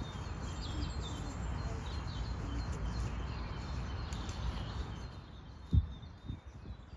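Wind buffeting the microphone, easing off about five seconds in, with small birds chirping over it and a single low thump near the end.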